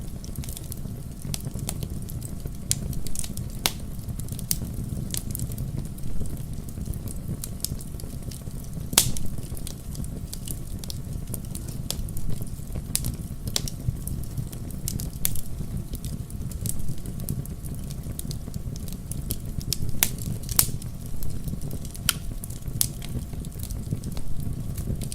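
Wood fire crackling in a fireplace: irregular sharp pops and snaps over a steady low rumble of the flames, with the loudest pops about nine seconds in and again near twenty seconds.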